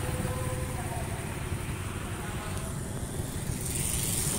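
Motorcycle engine idling at low revs, with street traffic passing.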